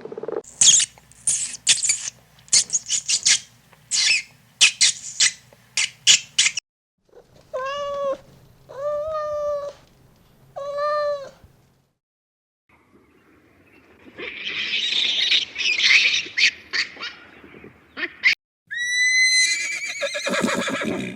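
A run of separate young-animal calls. First comes a quick string of short high chirps; then three rising-and-falling kitten meows; then a few seconds of noisy high chatter; near the end, a high wavering call.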